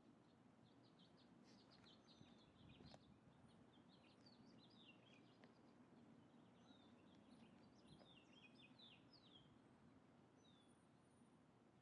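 Faint birds chirping and twittering in short, quick clusters over a low background hush, near silence overall.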